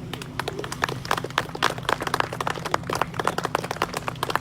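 A small crowd of onlookers clapping irregularly and quickly, applauding a baptism that has just been completed.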